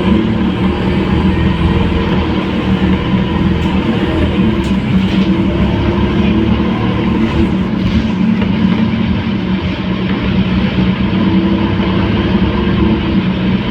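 Scania K230UB city bus's diesel engine running at a steady pitch, with road and body noise, heard from on board as the bus drives along.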